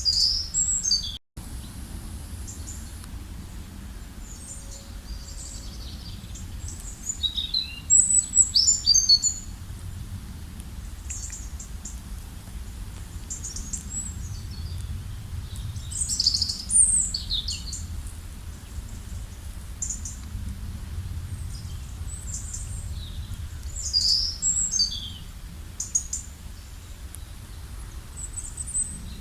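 Wild birds singing: clusters of quick, high chirps and trills every several seconds, over a steady low rumble.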